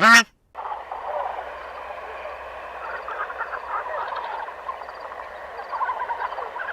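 A brief loud honking call at the very start, then a dense chorus of many small animals calling over one another, with short overlapping calls in a steady mass.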